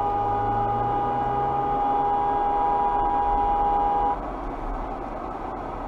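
A car horn held down in one long, steady blast that cuts off abruptly about four seconds in, over steady road noise.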